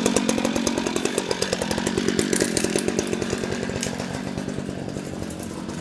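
Stihl FS94R string trimmer's small engine running steadily just after a cold start, its level slowly falling as it is carried away.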